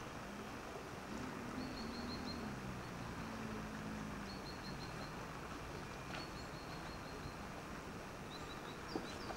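Outdoor ambience with a steady background hiss, and a small bird chirping in quick runs of four or five high notes, repeated several times. A faint low drone sounds in the first few seconds, and a single short knock comes near the end.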